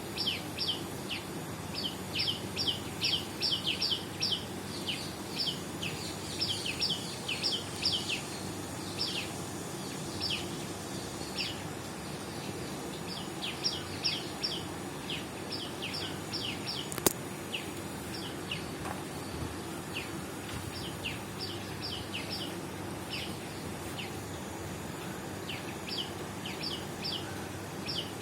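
Small birds chirping: runs of quick, short, high chirps that each drop in pitch, coming and going in bursts over a steady low background hum. One sharp click falls about two-thirds of the way through.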